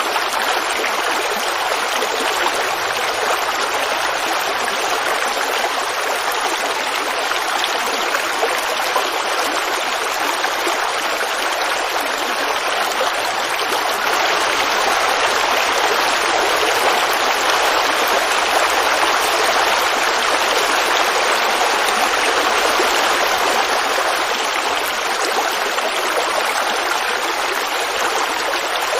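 Creek water babbling and running over stones in a steady flow, swelling a little in the middle.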